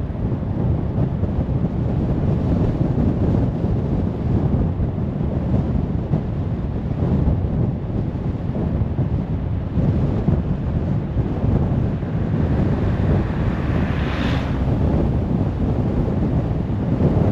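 Steady low rumble of road, tyre and wind noise from a car cruising on a motorway at night. About three quarters of the way through, a brighter hiss swells and fades.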